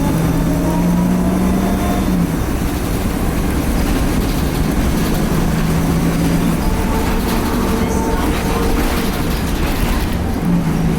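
Cummins ISL diesel engine of a 2010 Nova Bus LFS articulated bus, heard from inside as the bus drives. A steady low hum drops out and returns, under thin turbocharger whine tones that slowly shift in pitch.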